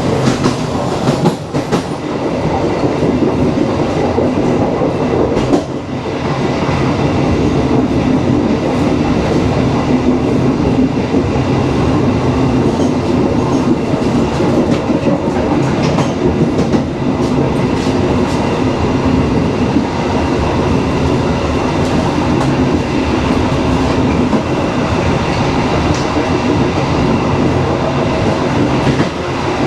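Dharmawangsa passenger train running steadily along the line: a continuous rumble of wheels on rail, with a few short clicks from the track.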